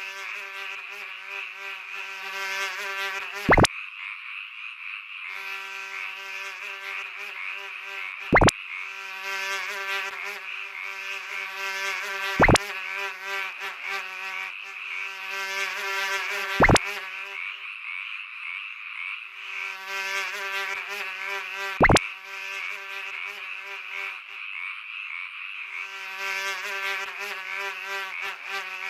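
Frogs croaking over a steady insect-like buzz, the croaking pausing and resuming in stretches. Five loud, very short blips that drop sharply in pitch cut through it, about four to five seconds apart.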